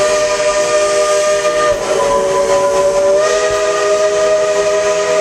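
Steam locomotive's chime whistle blowing one long blast, several notes sounding together as a chord over a hiss of steam, its pitch shifting slightly about two and three seconds in.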